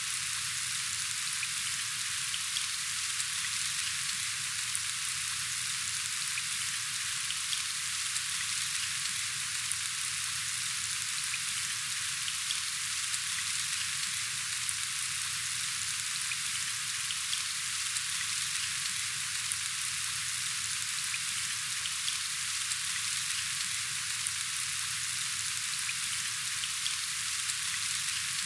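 Steady rain falling: a dense, even hiss of drops with faint scattered ticks.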